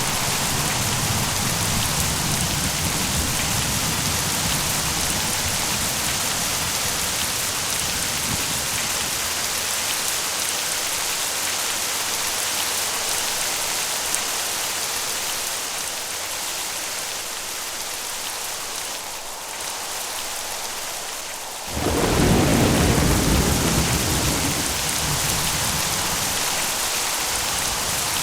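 Steady rain falling during a thunderstorm. Thunder rumbles low through the first several seconds, then a loud clap breaks about 22 seconds in and rolls away over the next few seconds.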